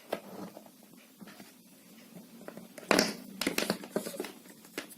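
Plug being pushed into a wall socket and the hair straightener and its cord handled: a short scrape and clunk about three seconds in, followed by several small plastic clicks.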